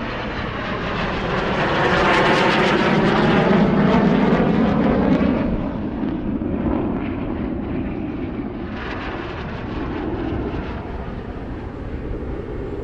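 Jet engines of military fighter aircraft, Eurofighter Typhoons with a Tornado, flying past in formation. The jet noise grows over the first couple of seconds, is loudest between about two and five seconds in, then dies away. A smaller swell comes near the ten-second mark.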